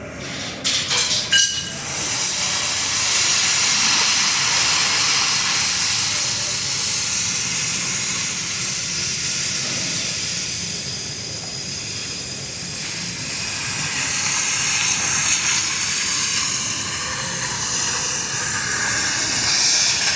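Electric welding arc, struck with a few sharp crackles about a second in, then held in a steady crackling hiss.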